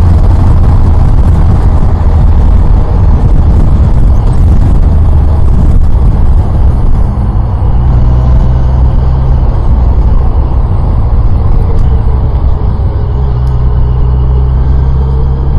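Yamaha FJR1300's inline-four engine running under way with heavy wind noise on the microphone, loud and jumping up suddenly at the start as the motorcycle pulls away.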